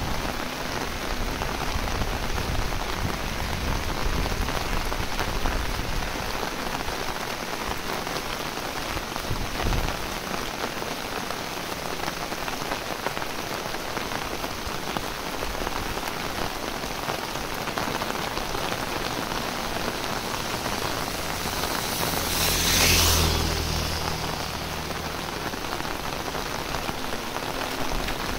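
Heavy rain falling steadily, a dense hiss of drops on leaves and ground. About three-quarters of the way through, a brief louder swell with a low rumble rises and fades.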